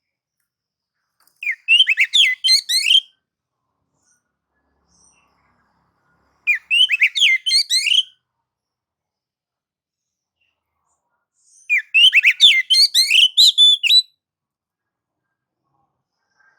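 Oriental magpie-robin (kacer) singing three bursts of rapid, varied whistled notes, each one and a half to two and a half seconds long, with silence between. This is the excited song of a bird in 'nagan' and 'ngobra' challenge display.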